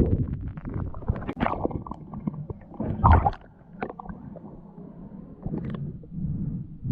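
Muffled water gurgling and bubbling, heard from a camera underwater or at the water's surface, with irregular knocks and clicks.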